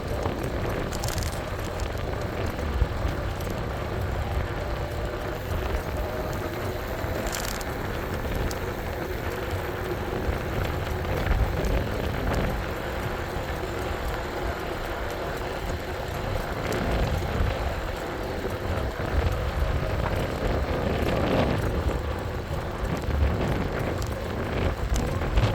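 E-bike riding noise: a steady low rumble of wind buffeting the microphone over tyre noise on the road.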